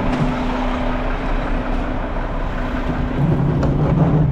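Front-loader garbage truck's diesel engine running steadily with a constant hum; about three seconds in a lower, louder hum joins, as the engine takes on more load.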